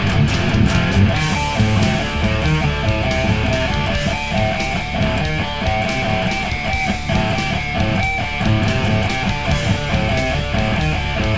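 Heavy rock music: an electric guitar plays a repeating riff of short picked notes over drums.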